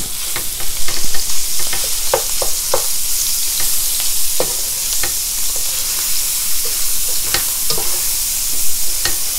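Canned corned beef sizzling in oil in a stainless steel pan, with steady frying hiss, while a slotted spatula scrapes and taps against the pan in irregular strokes as the meat is stirred and broken up.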